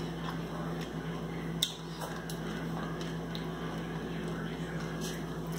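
A person chewing a chocolate-covered macadamia nut candy with crisped rice: faint mouth and crunch noises with a couple of light clicks, over a steady low hum.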